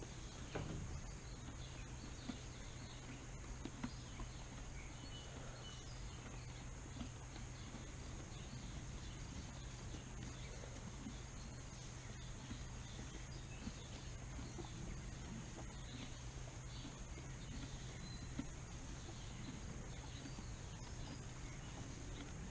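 Quiet barn ambience: a steady low hum with faint, short bird chirps now and then and a few soft knocks, plus a brief louder noise about half a second in.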